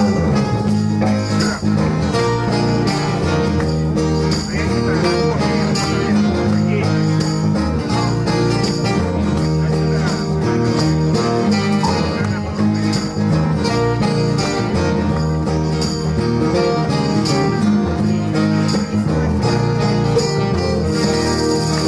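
Rock band playing live, an instrumental stretch with guitars, bass and drums keeping a steady beat.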